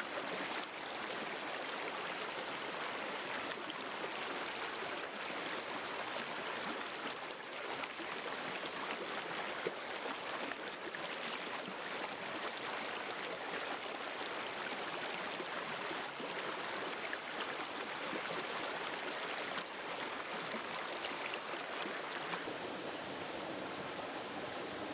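River water flowing steadily over rocks, an even rushing with faint splashes and trickles.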